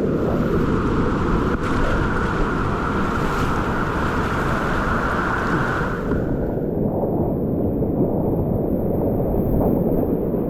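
Loud, steady rush of whitewater with wind buffeting the microphone. About six seconds in, the sound turns duller.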